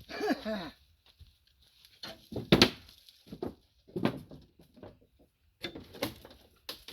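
A man breathing hard and heavily, with a falling vocal sigh at the start, then a string of loud, irregular breaths about a second apart.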